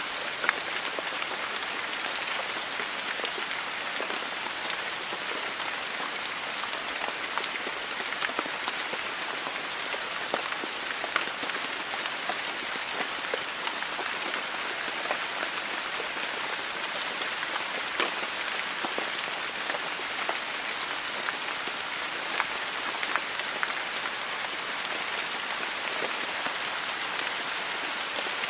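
Steady rainfall: an even hiss of rain, scattered with many distinct drop impacts.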